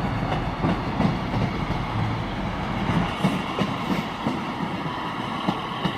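A train rolling past, its wheels knocking over rail joints again and again beneath a steady running hum.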